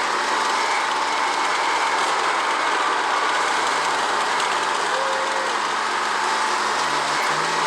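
A heavy tank's engine running steadily, an even, unbroken noisy drone.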